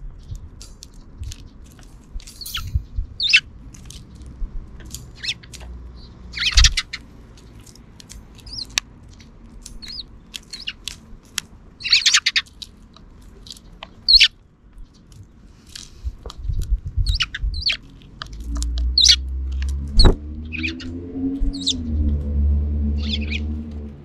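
Sparrows chirping in short, scattered calls, mixed with sharp little clicks. In the last several seconds a low rumble joins in, with a hum that rises and falls like a passing engine.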